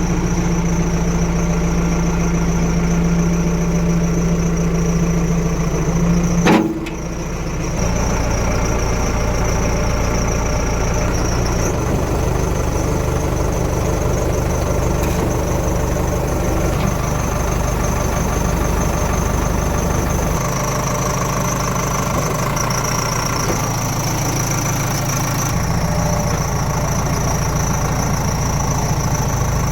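Diesel engines of heavy machinery running steadily at low revs, with the engine note shifting several times. There is a single sharp knock about six and a half seconds in.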